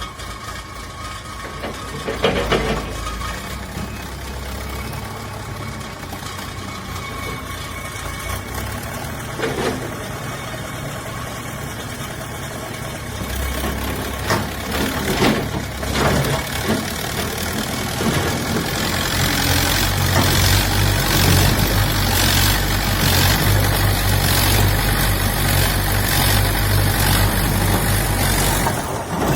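Diesel engine of heavy construction machinery running steadily, getting louder about two-thirds of the way in, with a few sharp knocks scattered through.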